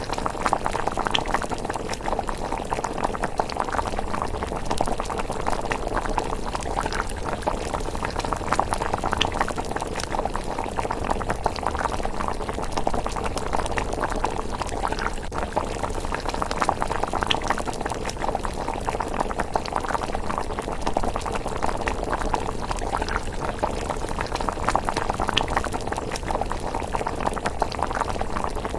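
Pot of thick miso rice porridge simmering, bubbling steadily, with a few sharp crackles from the wood fire beneath.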